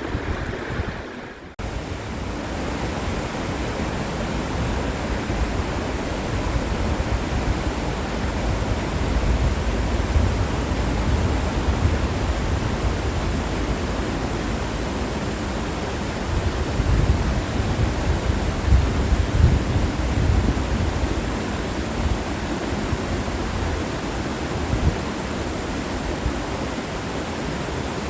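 Mountain valley stream rushing steadily, with gusts of wind buffeting the microphone as low rumbles. A brief dropout about a second and a half in, after which the water noise continues unchanged.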